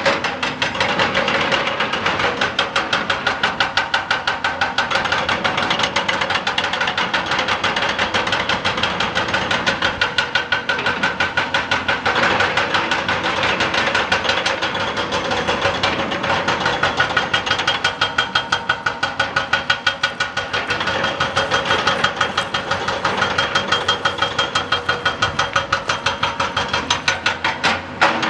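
Excavator-mounted hydraulic rock breaker hammering rock in a rapid, steady run of blows, over the excavator's running engine.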